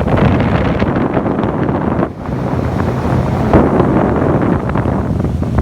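Wind buffeting the microphone on a moving boat: loud, rumbling, gusty noise that eases briefly about two seconds in, with a low steady hum underneath.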